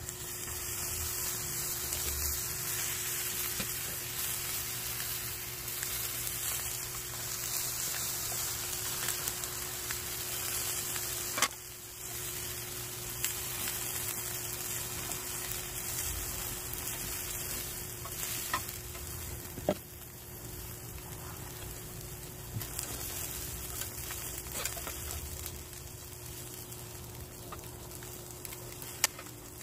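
Gopchang (intestines) sizzling steadily in a frying pan as it is cut up with kitchen scissors and turned with metal tongs. A few sharp clicks of the metal utensils against the pan.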